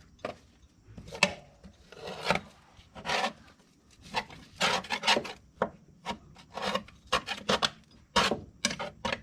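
Hand-held mower deck scraper scraping grass off a riding mower's deck in repeated short strokes, about one a second at first and quicker in the second half.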